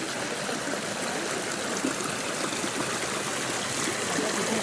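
Water running steadily, a constant even wash of flowing water.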